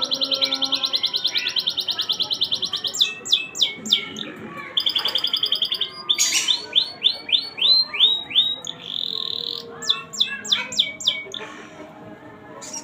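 Domestic canary singing a long, fast song: rapid rolls of repeated high notes, then runs of quick down-slurred notes. The song stops about a second before the end.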